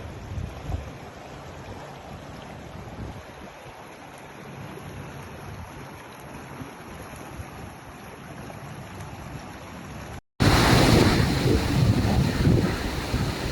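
Rushing floodwater in a wadi, a steady noisy rush with wind buffeting the microphone. About ten seconds in it cuts off briefly and returns much louder and rougher.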